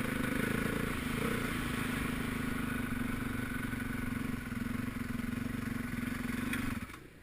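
Motocross bike engine running at a steady speed, then cutting out near the end.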